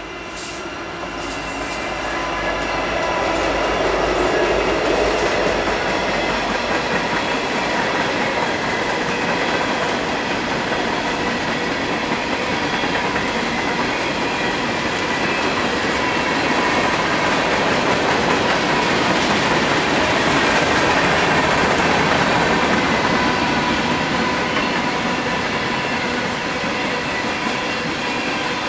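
Norfolk Southern freight train passing close by. The lead diesel locomotives' engines rumble past over the first few seconds as the sound swells. Then a long string of hopper cars rolls by with steady wheel-on-rail noise and thin, steady wheel squeal.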